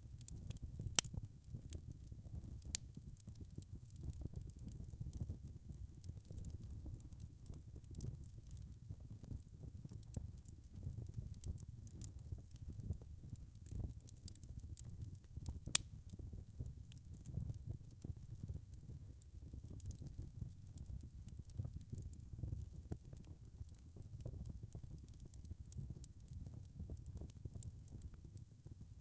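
Wood fire crackling steadily with many small clicks over a low rumble. There are two louder pops, about a second in and near the middle.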